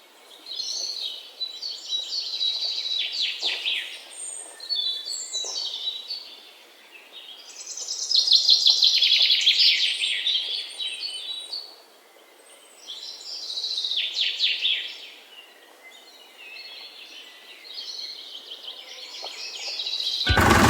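Songbirds singing in a series of chirping and fast trilling phrases, separated by short pauses. Loud music cuts in right at the end.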